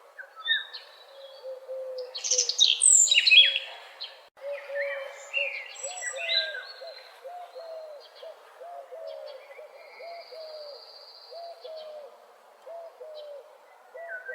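Wild birds singing in a mixed morning chorus: bright chirps and trills, busiest in the first half, over a low call repeated about twice a second throughout.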